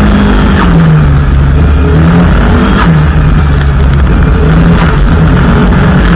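Mitsubishi Lancer EX turbo's engine driven hard on a gravel road, heard from inside the car, its note rising and falling a few times, with a few short sharp knocks.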